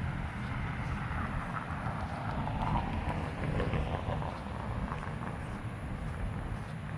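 Footsteps of a person walking on a path, over a steady hum of distant road traffic.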